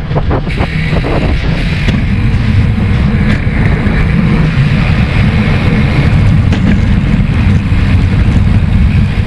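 Loud, steady rumble of wind buffeting the microphone, as heard while riding a bicycle.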